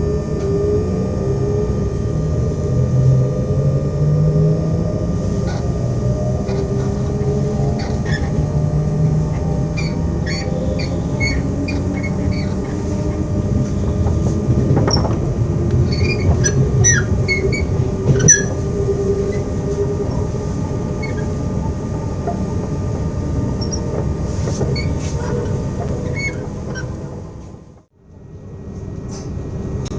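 Z 2N electric multiple unit Z 20553 running, its traction equipment whining in tones that slowly rise in pitch as it gathers speed, with scattered high wheel squeals and creaks. The sound dips out sharply for a moment near the end.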